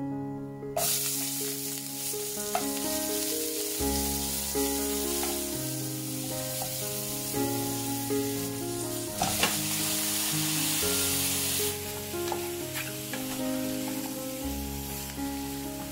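Onions and whole spices sizzling in hot oil in an aluminium pressure cooker as they are stirred with a wooden spoon, with a few sharp knocks of the spoon against the pot. The sizzle starts about a second in. Near the end the stirring is through pieces of mutton. Background music plays throughout.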